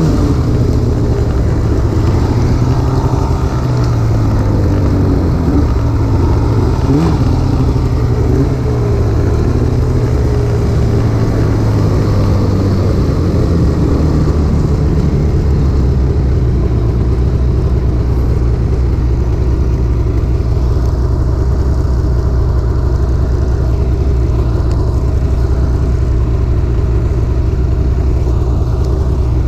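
Snowmobile engine running under way. Its pitch rises and falls for the first dozen seconds or so, then holds steady at a constant speed.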